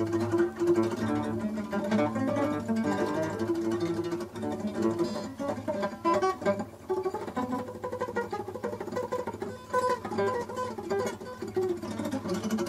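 A stringed instrument played by plucking, a steady run of quick picked notes, as the player checks that it is in tune.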